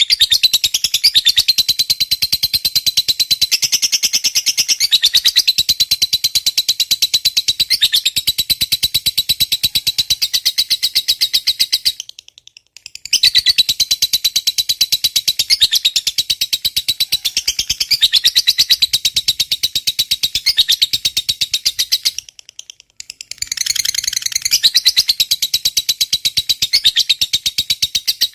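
Lovebird giving the long 'ngekek' call: a loud, sustained run of rapid, sharp chattering notes that breaks off briefly twice, about halfway through and again near the end.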